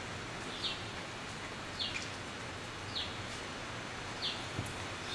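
A small bird chirping: one short, high call, falling slightly, about every second, over a steady hiss.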